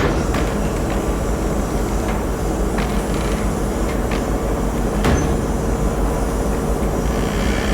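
Steady low rumble and hum of the car ferry Ritsurin 2 under way, its engines running, with a few faint clicks about three, four and five seconds in.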